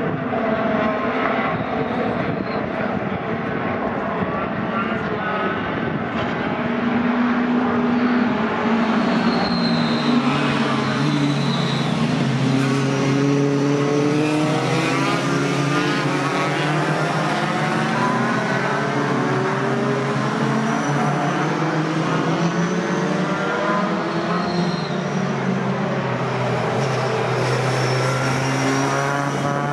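Racing pickup trucks' engines running hard on the circuit, several at once, their pitch climbing through the gears and dropping as they back off, with a note held steady for several seconds in the middle.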